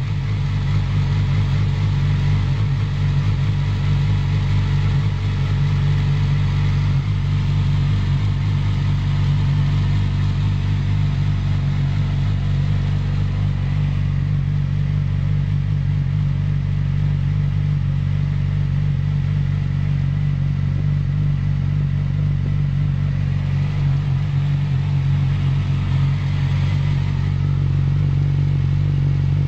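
Yamaha YZF-R6 (RJ15) inline-four engine idling steadily through its exhaust.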